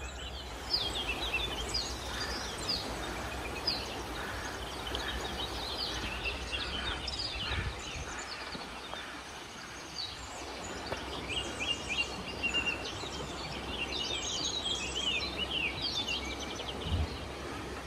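Several small songbirds chirping and trilling on and off over a steady background hiss.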